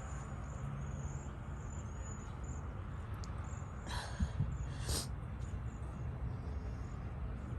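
Outdoor ambience: a low rumble of wind and faint high chirping throughout, with two short sniffs or breaths from a person about four and five seconds in.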